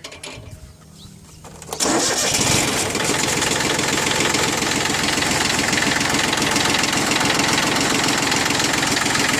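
Yanmar F15D compact tractor's three-cylinder diesel starting: quiet at first, then it catches suddenly about two seconds in and settles into a steady idle that sounds really good.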